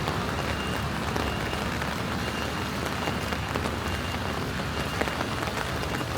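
Steady rain falling on a city street, a continuous hiss dotted with many small drop ticks.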